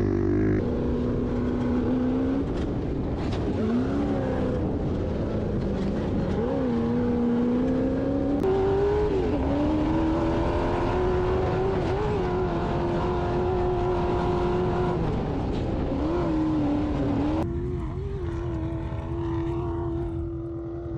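Off-road vehicle engine running hard, its pitch holding high, dipping briefly and climbing again several times, as with gear changes under load. The sound changes abruptly twice.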